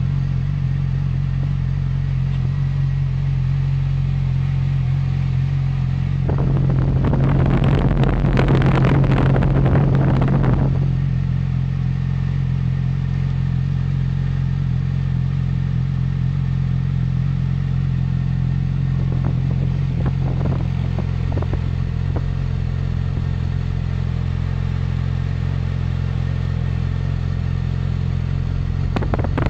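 Yamaha YZF-R6 RJ15's 600 cc inline-four idling steadily through its exhaust, revved up once about six seconds in for roughly four seconds before settling back to idle, with a few short throttle blips around twenty seconds in and again near the end.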